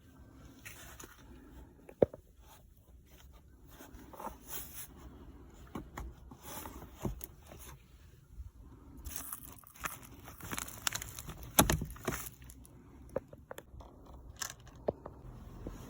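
Hands working plastic interior parts of a Honda N-BOX to get at the cabin air filter: irregular plastic clicks, knocks and scraping. There is one sharp click about two seconds in and a run of louder knocks about three-quarters of the way through.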